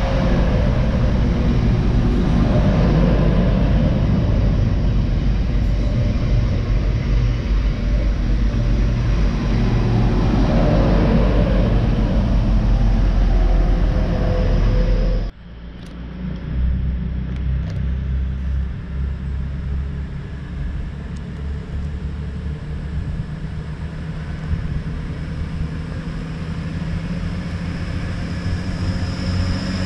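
Two coupled Class 185 diesel multiple units passing close at speed: a loud, steady rumble of engines and wheels on rail. About halfway it cuts off abruptly, replaced by a quieter rumble of a Class 180 diesel unit approaching, with a high whine building near the end.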